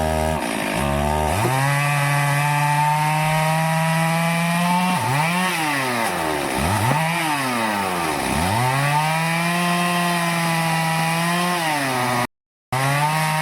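Stihl two-stroke chainsaw running at high revs while cutting teak wood, its pitch dropping sharply and recovering several times as the chain bites in. The sound cuts out briefly near the end.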